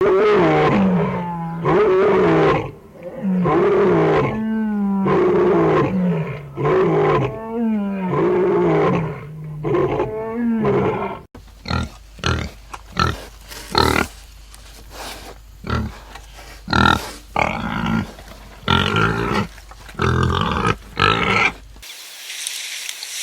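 Animal calls from different animals in succession: first a series of loud, drawn-out calls with wavering pitch, then, about eleven seconds in, a different animal's short, separate calls, and near the end a steady hiss.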